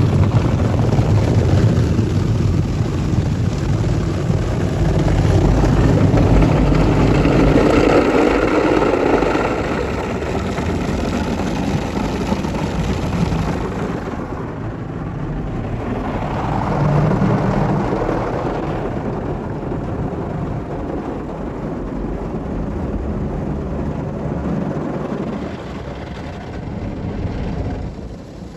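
PDQ Tandem SurfLine touchless in-bay automatic car wash running through a cycle: a loud, continuous rush of spraying water and machinery that shifts in character, losing much of its hiss about halfway through.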